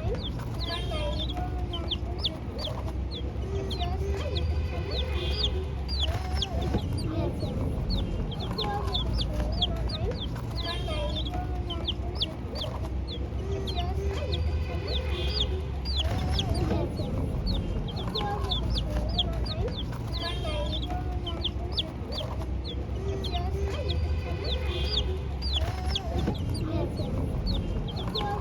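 A group of chicks peeping: many short high cheeps, several a second, with lower clucking calls among them over a steady low hum. The same pattern of calls seems to come back about every ten seconds.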